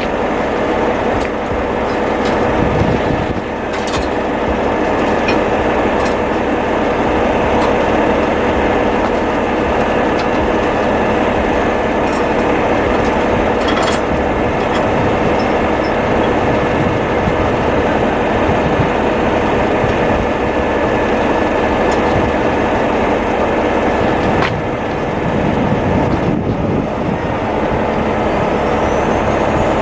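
Heavy diesel truck engine running steadily, with a continuous whine through it and a few faint clicks.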